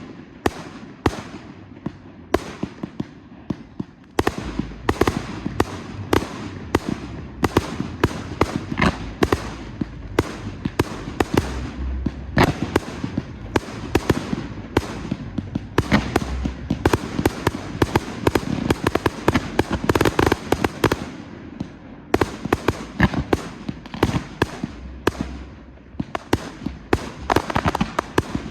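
Professional fireworks display: a dense, continuous barrage of bangs and crackles, several a second, over a rolling rumble of shell bursts that grows heavier about four seconds in.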